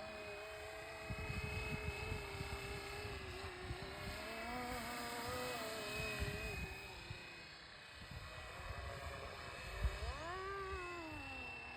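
Radio-controlled scale Bo 105 helicopter in flight, its electric motor and rotor whine wavering in pitch, rising and then falling again about ten seconds in. Gusty wind buffets the microphone underneath.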